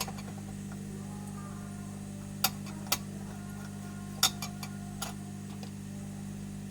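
Steady low electrical hum from the rework bench equipment, with four or five sharp clicks of metal tools against the board or bench during soldering work.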